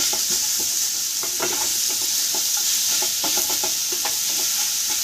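Diced boiled potatoes frying in oil in a non-stick pan, with a steady sizzle, while a wooden spatula stirs them and scrapes the pan in irregular short strokes. The potato filling is being sautéed well.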